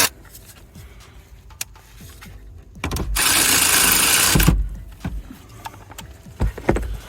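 Sped-up clicks and knocks of trim panels and fasteners being refitted by hand, with one loud rasping burst of about a second and a half in the middle.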